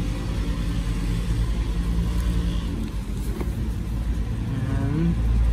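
A motor vehicle's engine running steadily with a low, pulsing hum, getting louder near the end.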